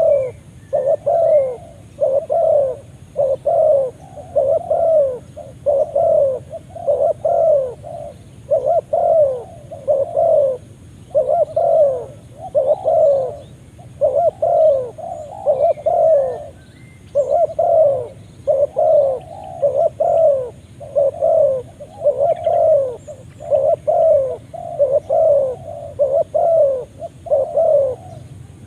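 Spotted dove (tekukur) cooing: a long, steady run of short repeated coos, about one and a half a second, with a few brief pauses.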